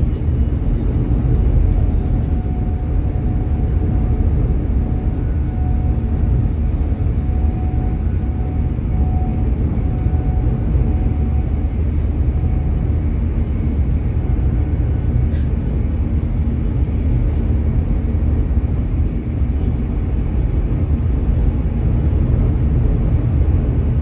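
Passenger train running at speed, heard from inside the carriage: a loud, steady low rumble, with a faint whine that comes and goes in the first half.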